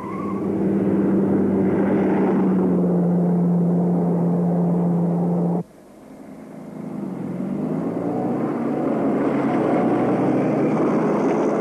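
Rally car engines running hard. One engine holds a steady, slightly falling note and cuts off abruptly a little past halfway. Another then builds up, dips briefly in pitch and rises again.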